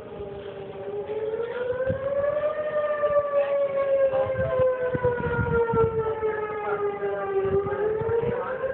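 Outdoor tornado warning siren wailing. Its steady tone rises over the first couple of seconds, sinks slowly for about five seconds, then rises again near the end.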